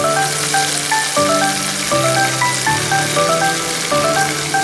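Garlic and melted cheese sizzling in oil in a frying pan while being sautéed with a wooden spoon. The sizzle is a steady hiss that starts at once. Background music with a repeating melody of short notes plays throughout.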